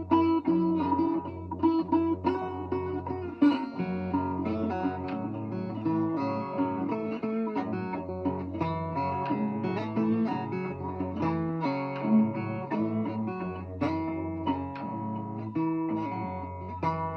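Acoustic guitar picking a blues tune, with long, steady low notes held underneath for seconds at a time.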